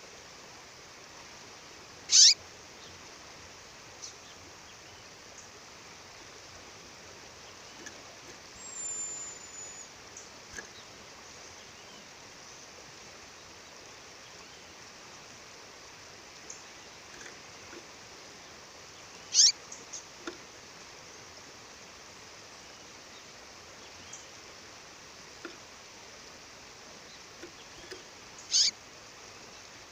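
A female bird calling: three loud, very short, downward-sweeping high calls spaced well apart, with a faint high whistle between them, over the steady rush of a waterfall.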